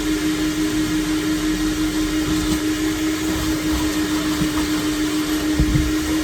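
Vacuum cleaner running steadily while cleaning a car's floor: an even motor hum with a rushing hiss, and a couple of low knocks near the end.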